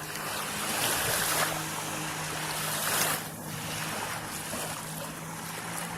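Jet ski engine running at a steady pitch, mixed with rushing wind and water noise on the microphone.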